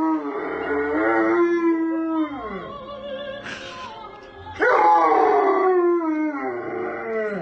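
A dog howling in long drawn-out notes that slide down in pitch: one fades out after about two seconds, and a loud new howl starts a little past halfway through.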